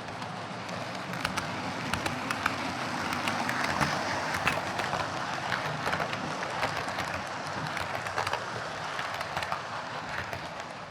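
OO gauge Bachmann Class 37 model diesel locomotive running along the track, its small electric motor and gears whirring steadily, with irregular clicks as the wheels pass over rail joints.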